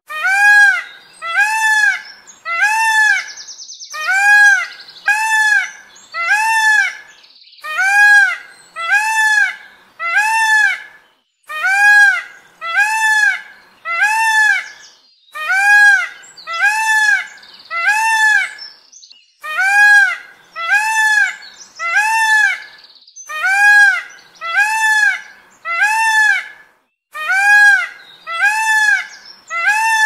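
Indian peafowl (peacock) calling: loud calls that rise and fall in pitch, repeated about every 0.7 s in runs of several with short breaks between runs.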